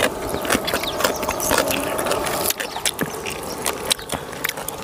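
Close-up crunching and chewing of crispy jar-roasted rat meat and skin, with many sharp, irregular crackles.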